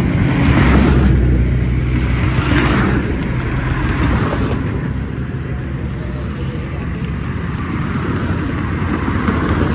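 A vehicle engine running steadily at low speed, with a broader noise swelling and fading above it a few times.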